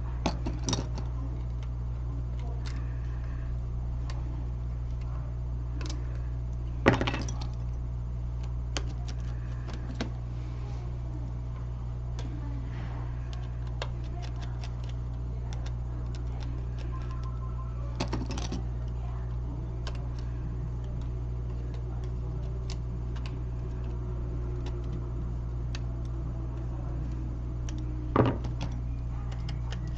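Small clicks and taps of metal hand tools and phone parts on a repair bench, now and then a sharper knock, over a steady low electrical hum. This is the sound of an iPhone 6 Plus being taken apart.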